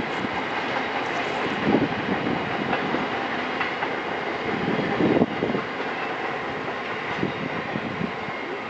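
Flat wagons of a freight train rolling past: a steady rattle and rumble of wheels on the rails, with a few louder knocks of wheels over rail joints, the loudest about five seconds in. The sound eases off slightly near the end.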